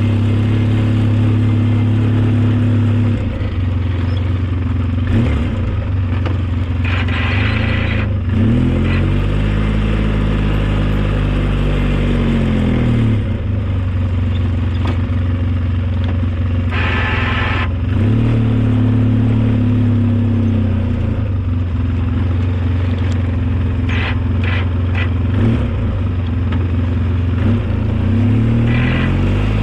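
Engine of an old snowplowing vehicle running under working load, its speed falling and rising several times, with a few brief clattering noises.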